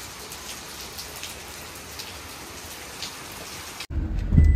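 Steady heavy rain falling on a wet paved patio and garden, with scattered drip ticks. Near the end it cuts abruptly to the inside of a car in the rain, where a louder low rumble takes over.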